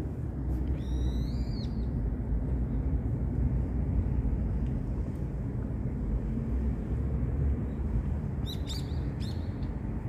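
Wild birds calling: one drawn-out, arching call about a second in, then a quick run of sharp calls near the end. A steady low rumble runs underneath.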